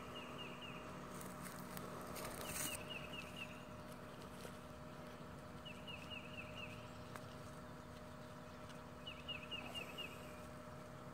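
A small bird singing a short phrase of four or five quick down-slurred notes, four times, a few seconds apart, over a faint steady hum.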